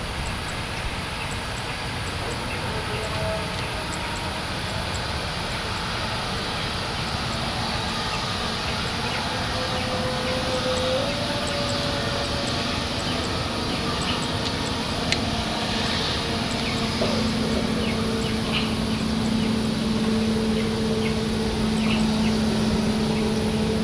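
Jet airliner engines running at a distance, a steady rushing sound with a low hum that slowly grows louder.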